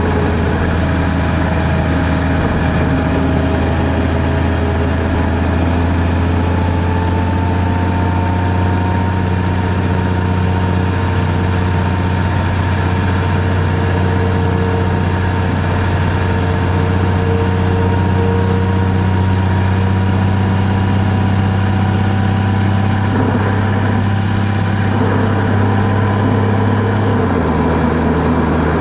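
Car engine and road noise heard from inside the cabin while driving: a steady low drone with faint whining tones that drift slowly in pitch. The low drone shifts down a step near the end.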